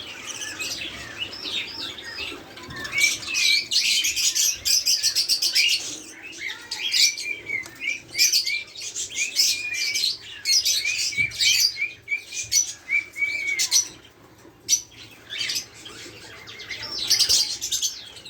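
Budgerigars chirping and chattering in rapid, high-pitched warbles. The chirping drops to a lull about three-quarters of the way through, then starts again near the end.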